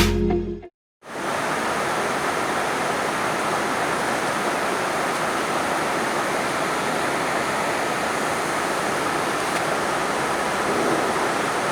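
Music cuts off just under a second in, and after a brief silence steady rain starts up: an even, unbroken hiss that stays level.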